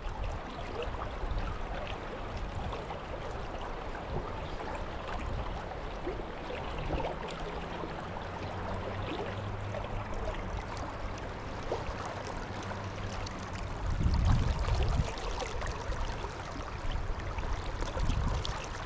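Fast-flowing river water rushing steadily over rocks. A louder low rumble rises about 14 seconds in.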